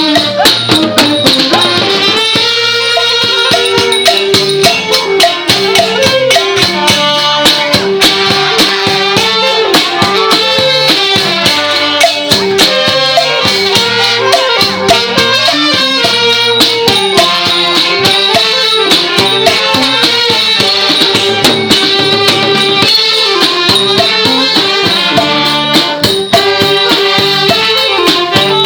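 Thai trae wong brass band playing: wind instruments carry a melody over continuous drums and small percussion.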